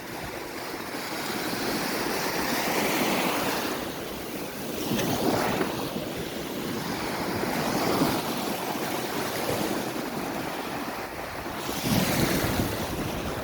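Ocean surf breaking and washing up the beach in repeated swells, with wind buffeting the microphone.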